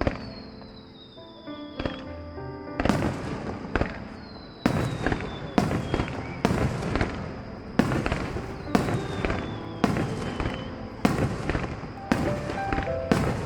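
Fireworks bursting in a series of sharp bangs, about one a second from about three seconds in, over music.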